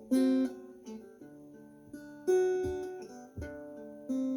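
Acoustic guitar playing the song's chords without voice. Three loud strummed chords about two seconds apart each ring and fade, with softer picked notes between them.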